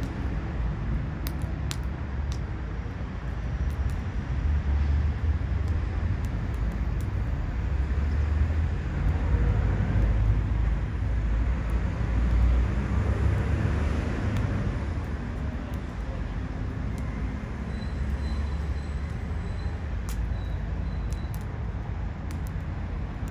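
Ubame oak firewood burning, with a few sharp crackles shortly after the start and again near the end. Underneath is a steady low rumble that swells through the middle.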